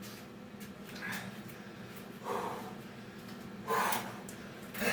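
A man breathing hard from exertion during a hard workout: a few short, forceful breaths, the strongest near the end.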